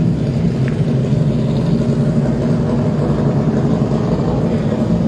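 Car engine running steadily without revving, a low, even hum.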